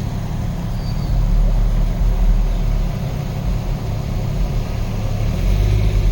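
Jeep engine running, a steady low rumble.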